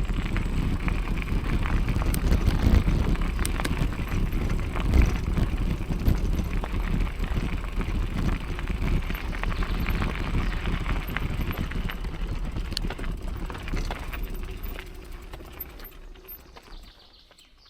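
Rumbling wind noise on the microphone with scattered clicks and knocks, fading out over the last few seconds.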